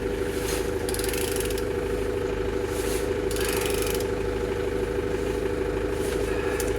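Steady mechanical hum with several short rasping noises as a BMW N43B16A engine is turned over without running.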